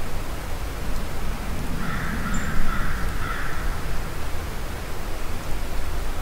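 A distant bird call, under two seconds long, about two seconds in, over a steady background hiss and low rumble.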